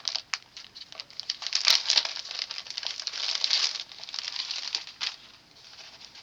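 Packaging crinkling and rustling as it is handled and unwrapped, with many small clicks. It comes in louder spurts and dies down near the end.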